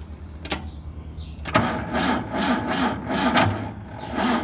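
Ford 172 forklift engine being cranked by its starter, starting about a second and a half in and turning over slowly in even chugs about twice a second without catching. The slow cranking is the sign of weak batteries.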